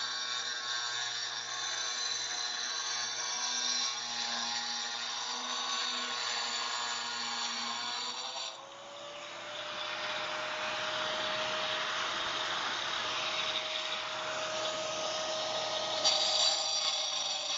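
Hitachi hand-held angle grinder with a diamond blade scoring through firebrick: a steady motor whine over a gritty grinding noise. About halfway through the level briefly dips, then the whine settles a little higher in pitch.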